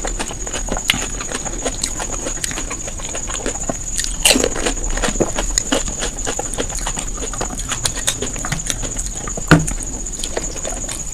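Close-up eating sounds: food being chewed and bitten, with irregular clicks and wet smacks. A louder patch comes about four seconds in, and a sharp knock a little after nine seconds. A steady high-pitched whine runs underneath.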